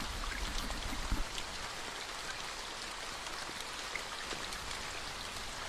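Steady rain falling, with scattered drop ticks and a few low thumps in the first second or so.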